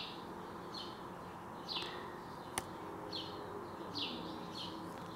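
Faint bird chirping: a string of short, high chirps, each falling in pitch, repeating every half second or so. One sharp click comes about two and a half seconds in.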